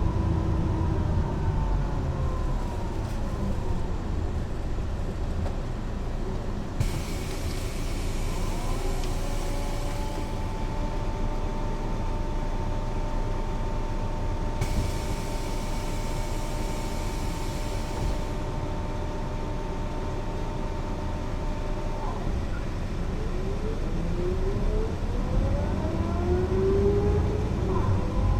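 Mercedes-Benz O 405 NÜ bus's diesel engine and drivetrain heard from on board while driving: a steady engine rumble under a drive whine that falls in pitch early on, holds steady for a long stretch, then rises in several glides near the end as the bus picks up speed. Two spells of high hiss, each a few seconds long, come in around a third and halfway through.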